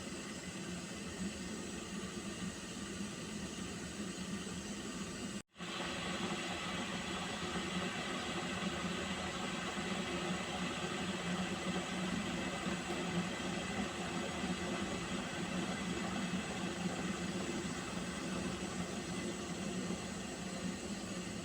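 Water heating in a pot: a steady hiss with a low hum and faint held tones. It cuts out completely for a moment about five seconds in, then comes back slightly louder.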